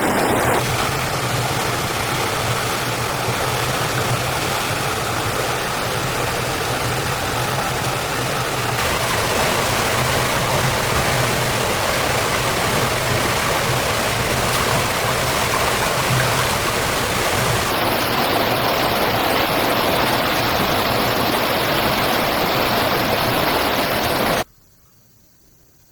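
Steady rush of flowing water, like a stream or small waterfall, running loud and even, then cutting off abruptly near the end.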